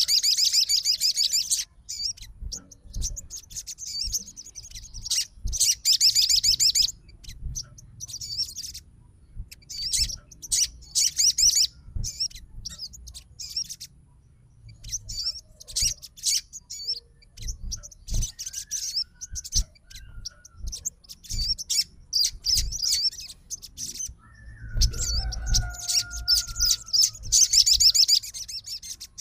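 Sogon songbird singing in its lively fighter style: bursts of rapid, high trilling chatter a second or two long, repeated with short pauses, with a lower falling whistle about 25 seconds in.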